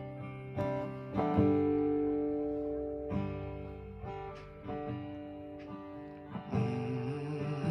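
Acoustic guitar playing slow chords live, each struck chord ringing out and fading before the next.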